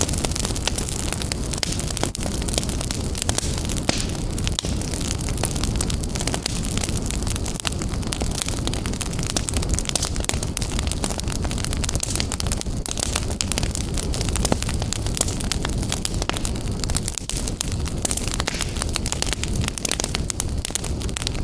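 Wood fire burning in a fireplace, crackling and popping continuously over a steady low rumble of the flames.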